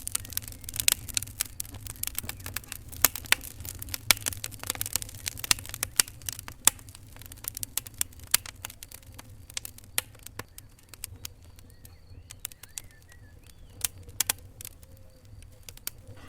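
Fireplace fire crackling: irregular sharp pops and snaps, many a second, over a low steady rumble of the burning. The pops thin out after about halfway.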